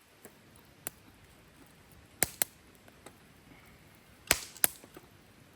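A handful of short, sharp clicks and knocks, the loudest in pairs about two seconds in and again about four seconds in.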